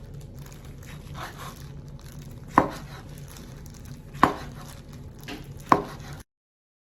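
A kitchen knife striking a cutting board three times, sharp knocks about a second and a half apart, over a low steady hum; the sound cuts off abruptly near the end.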